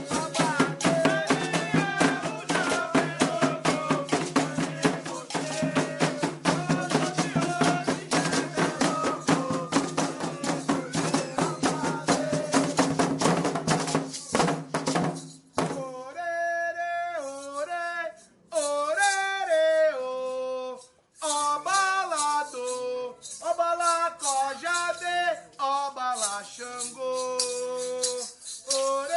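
Candomblé ritual song for Xangô: voices singing over dense, fast drumming and rattles. About halfway through the drums stop and the singing goes on with only a shaken rattle keeping the beat.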